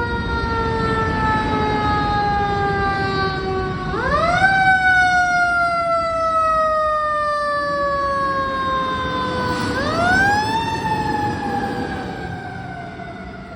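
Fire engine siren on wail: the pitch rises quickly, then falls in a long slow glide, sweeping up again about four seconds in and again about ten seconds in, over the truck's low rumble. It grows fainter near the end.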